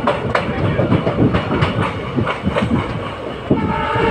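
Express train running, heard from on board: the coaches rattle and the wheels click over the rail joints. About three and a half seconds in, a train horn starts sounding steadily.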